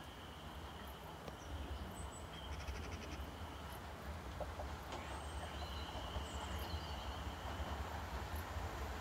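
Class 450 Desiro electric multiple unit approaching in the distance, a low rumble that slowly grows louder as it nears. Birds chirp now and then above it, including a quick run of chirps a few seconds in.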